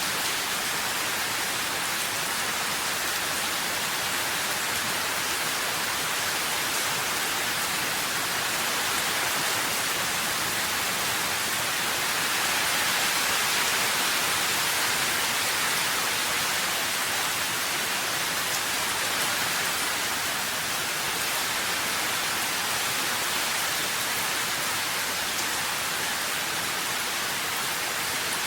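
Steady rain falling, an even hiss with no distinct drops or thunder, swelling slightly in the middle.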